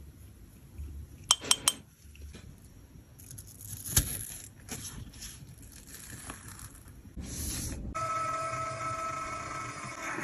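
Small hard cosmetic containers and tools clinking and tapping: three quick ringing clinks, a sharp knock about four seconds in, then scattered handling taps. For the last two seconds there is a steady hum with a pitched whine.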